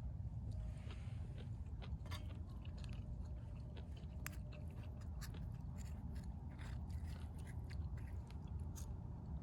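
A person chewing food close to the microphone: irregular small crunchy clicks over a steady low rumble.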